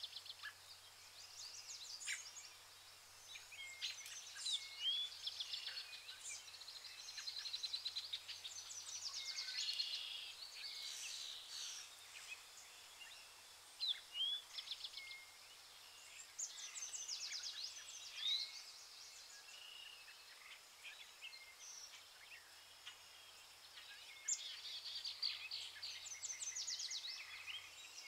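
Several wild birds calling: short rising whistles, chirps and rapid trills overlapping one another, over a faint steady hiss.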